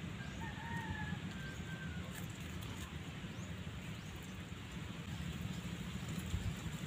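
A steady low outdoor rumble, with a bird calling once about half a second in. Faint light clicks come from a metal spoon working against opened sea urchin shells.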